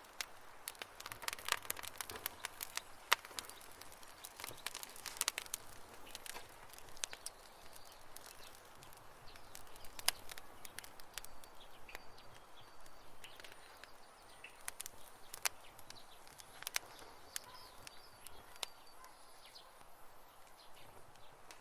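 Wood campfire crackling, with irregular sharp pops and snaps over a soft hiss, densest in the first few seconds and sparser later. Faint high chirps come in the second half.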